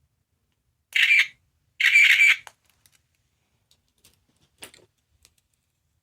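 Small sound-making capsule toy playing a short sound effect from its tiny speaker twice, about a second in and again just before two seconds, followed by a faint click.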